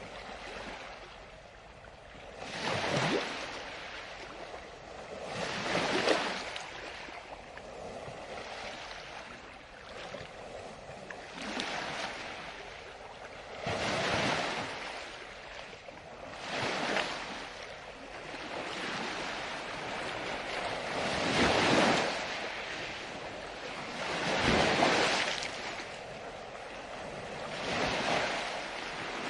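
Ocean waves breaking on a beach, each one swelling into a rushing wash and then fading, with a new wave every three to four seconds.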